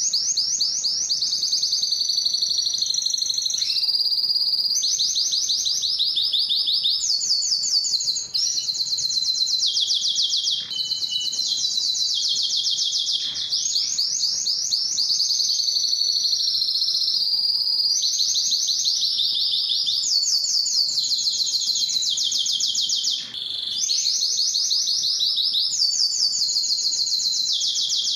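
Domestic canary singing continuously: a long song of fast, high trills, each phrase a rapid run of repeated notes lasting a second or two before switching to another pitch, with only brief pauses.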